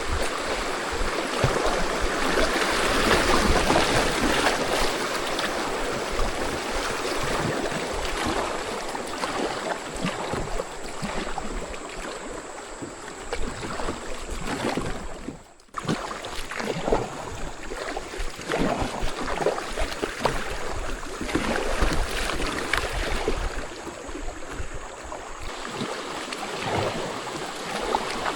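Rushing water of a mountain creek, a steady hiss, with irregular low knocks underneath. The sound drops out suddenly for a moment just past halfway, then resumes.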